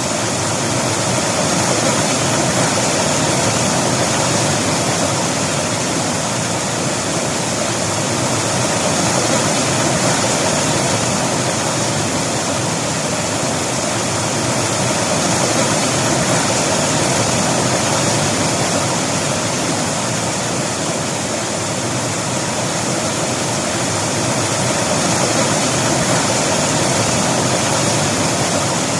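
River water flowing and rushing steadily, a continuous even rush that swells and eases slightly every few seconds.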